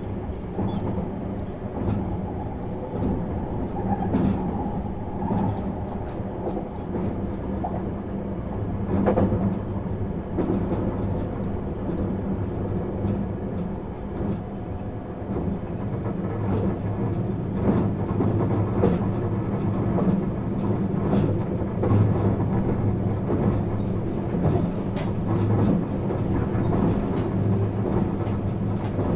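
JR East 651 series electric multiple unit running along the line, heard from inside the passenger car: a steady low rumble of running gear with occasional clicks from the wheels crossing rail joints.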